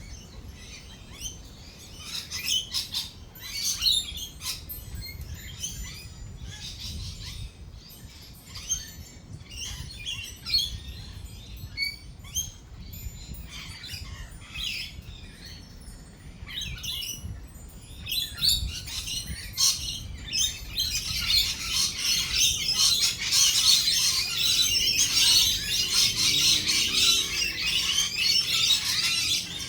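A flock of lorikeets chattering and screeching in short, overlapping chirps. About two-thirds of the way through they build into a dense, louder, continuous chatter.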